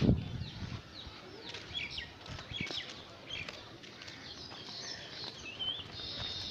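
Several small birds chirping and calling, with short whistles that rise and fall and, near the end, a steady high trill. A low thump right at the start is the loudest sound.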